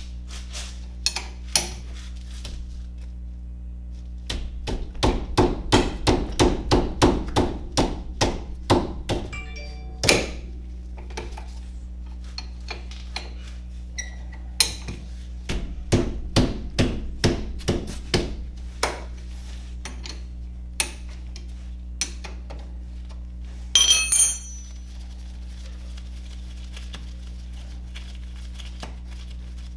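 Hand tools knocking and clanking on metal during a brake job, in two runs of sharp strikes about three a second, with a brief bright clank near the end, over a steady low hum.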